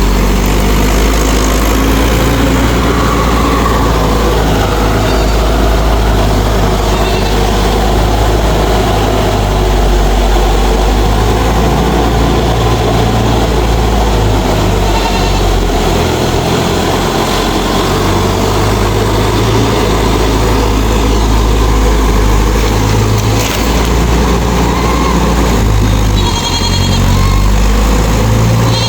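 Mahindra 4WD DI tractor's diesel engine running steadily with a deep, even rumble.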